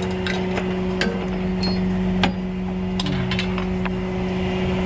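A vehicle engine running with a steady hum, with scattered sharp metallic clicks and clinks over it.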